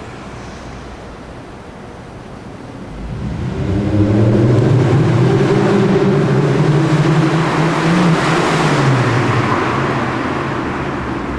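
Lexus IS250's 2.5-litre V6 through an F-sport aftermarket exhaust: the engine note swells loud about three seconds in under throttle, holds for several seconds, then drops in pitch and eases off near the end.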